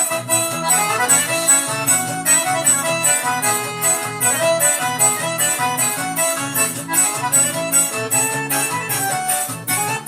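Electronic keyboard playing a lively forró-style festa junina tune, an accordion-like melody over chords and a steady drum-machine beat.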